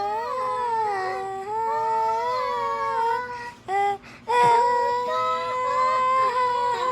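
A high-pitched voice crooning long, wavering notes that slide up and down, then breaking off and holding a steadier high note from about four seconds in.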